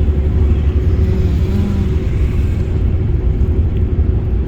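Road vehicle on the move: a steady, loud low rumble with a faint steady hum above it.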